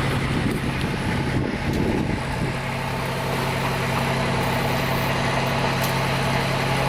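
Land train's engine running with a steady low hum, along with road noise from the moving train.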